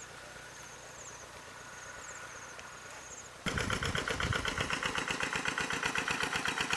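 Faint high chirps repeating about once a second, then a small engine suddenly starts running loudly with a rapid, even beat about three and a half seconds in.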